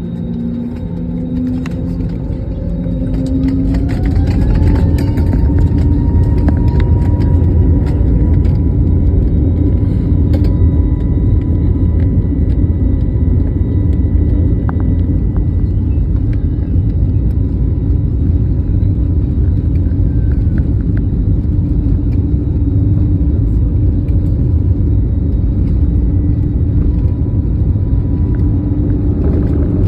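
Train running with a heavy, steady rumble; a whine climbs in pitch and the sound grows louder over the first few seconds as it picks up speed, then holds steady.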